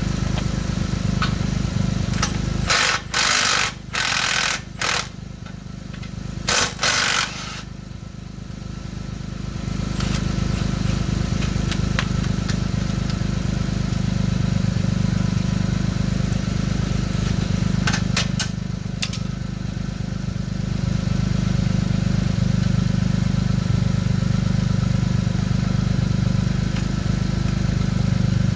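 2006 Lexus GS300's V6 engine and dual exhaust running with a steady low drone. A handful of short, loud bursts of noise cut in between about three and seven seconds in.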